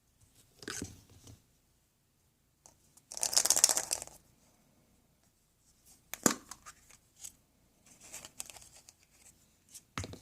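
Foil wrapper of a chocolate surprise egg being torn open and crinkled in several short bursts. The loudest tear comes about three seconds in, and a sharp click follows about six seconds in.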